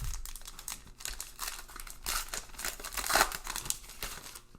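Plastic-foil wrapper of a Topps Heritage baseball card pack crinkling irregularly as it is handled and torn open.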